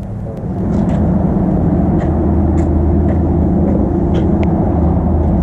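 Small mini bike engine running steadily, a little louder from just under a second in.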